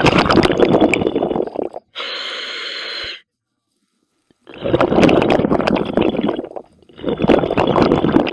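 Scuba diver breathing through a regulator underwater: rough, crackling bursts of exhaled bubbles alternate with the steadier hiss of an inhalation through the demand valve, separated by short silent pauses.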